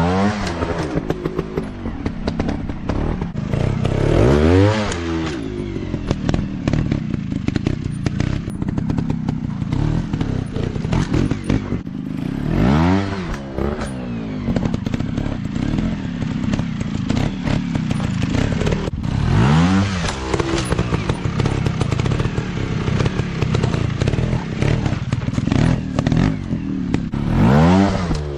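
Dirt bike engine running and revving, its pitch swooping up and back down in four loud bursts about seven to eight seconds apart, over continuous engine noise and clatter.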